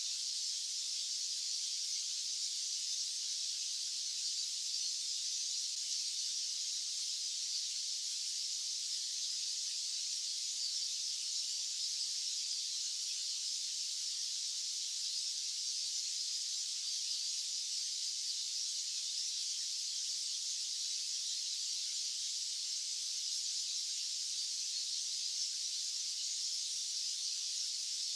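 Steady, unbroken high-pitched hiss of a white-noise track, its sound concentrated high with no low rumble.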